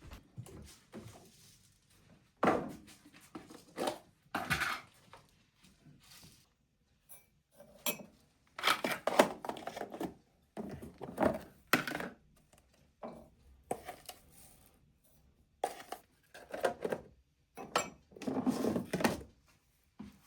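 Irregular knocks, thunks and clatter of hard objects being handled and set down in a small room, a dozen or so separate bursts with short quiet gaps between.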